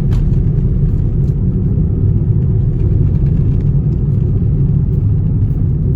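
Steady low rumble of a moving vehicle: road and wind noise while driving. It cuts off suddenly at the end.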